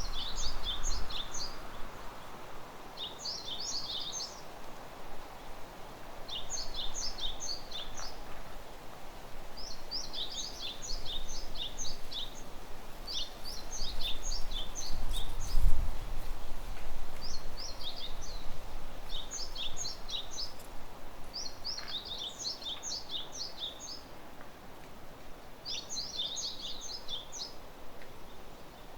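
A small songbird singing a short, high-pitched chirping phrase over and over, about every three seconds, over a steady hiss of forest ambience. A brief low rumble comes about halfway through.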